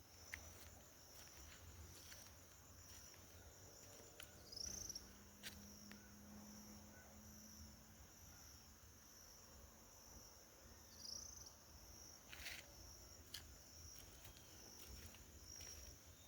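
Faint steady high-pitched chirring of insects such as crickets, with two short rising-and-falling high calls, about four and a half and eleven seconds in, and a few faint clicks.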